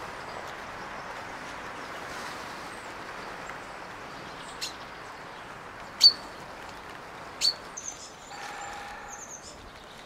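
Woodland birds against a steady background hiss: three sharp, short chirps about a second and a half apart in the second half, the middle one loudest. They are followed by a brief pitched call with faint high twittering.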